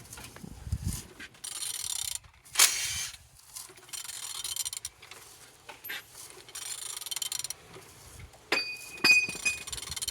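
A ratchet wrench turning the crankshaft of a Mitsubishi 4G69 engine by hand, clicking in several strokes with a metallic clank and a ringing clink between them. The engine turns over freely.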